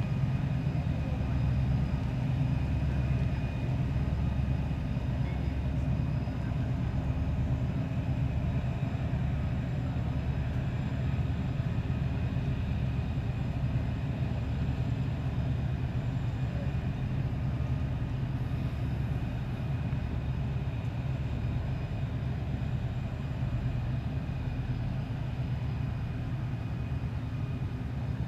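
Steady low drone of a riverboat's diesel engines passing, an even hum with no breaks.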